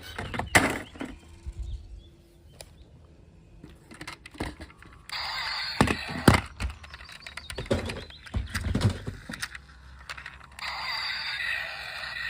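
Plastic toy vehicles knocking and clattering, with two stretches of electronic toy sound, one about halfway through and one near the end.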